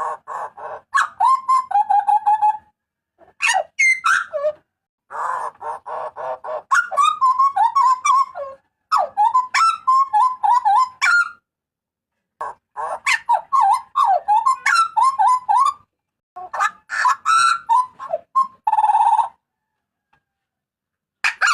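A butcherbird calls loudly in repeated phrases. Quick runs of whistled notes alternate with harsh, noisy screeches, and there are short pauses between bouts.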